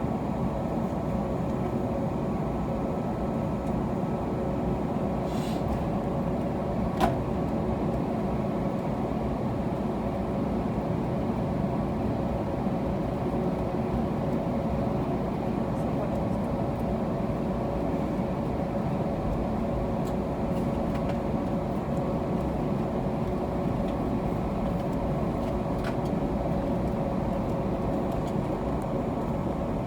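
Steady cabin noise inside an Airbus A321neo with its Pratt & Whitney PW1100G geared turbofans running at low power: an even rumble and hiss with two steady hums, and one sharp click about seven seconds in.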